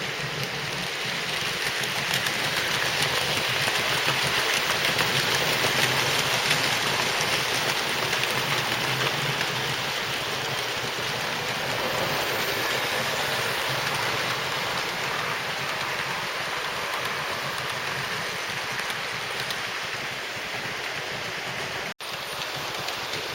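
00 gauge model trains running on the layout track: a steady rattling hiss of wheels on rail, thick with fine clicks, with a split-second dropout near the end.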